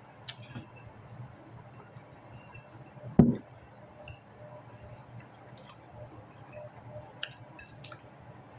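Small clinks of utensils and dishes during a meal, with one dull thump about three seconds in, the loudest sound.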